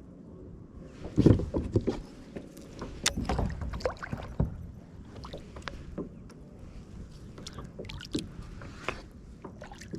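Irregular knocks, bumps and rustling of someone moving about and handling things in a kayak, loudest about a second in and again around three to four seconds, over faint water noise.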